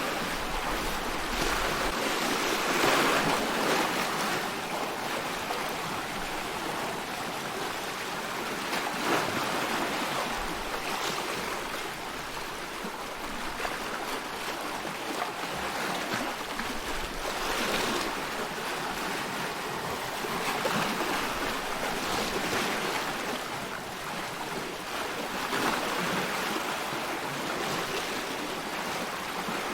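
Sea waves washing in a steady stream of water noise that swells and eases every few seconds.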